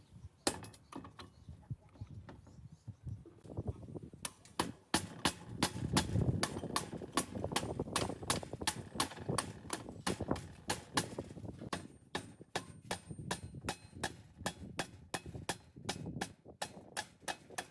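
A quick series of sharp clicks and taps, about two to three a second, from hand tools working on metal engine parts, starting about four seconds in.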